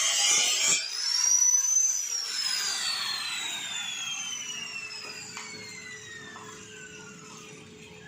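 Power tool running under load, which stops about a second in; its motor whine then rises briefly and falls slowly in one long glide as it coasts down after being switched off.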